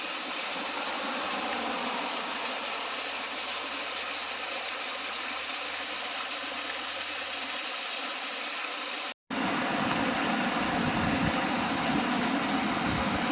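Steady rushing of waterfalls, an even hiss of falling water. About nine seconds in it cuts abruptly to a second waterfall with a slightly louder, deeper rush.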